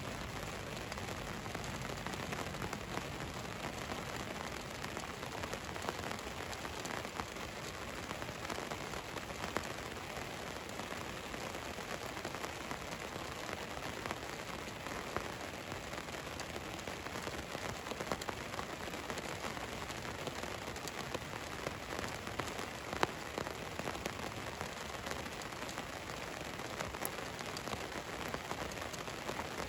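Rain falling on a van: a steady even patter with scattered sharper drop ticks, one louder tick about two-thirds of the way through.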